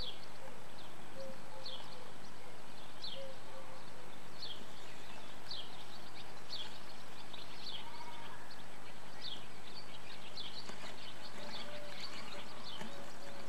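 Short, high falling chirps from birds, repeated about once or twice a second and coming more often near the end, over a steady hiss.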